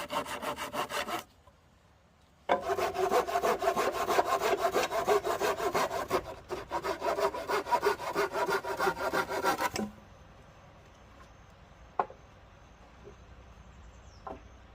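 Hand saw cutting through wood in fast, even back-and-forth strokes. It pauses briefly near the start, saws again for about seven seconds and stops about ten seconds in. After that there is a single sharp click.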